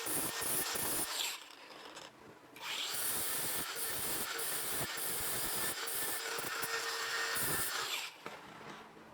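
Workshop tool noise, a steady rasping hiss with a faint hum under it. It stops a little after a second in, starts again before three seconds, and cuts off near the end.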